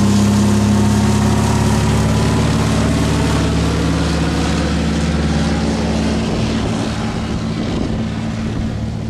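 A light propeller plane's piston engine running steadily close by, a constant drone that fades somewhat near the end.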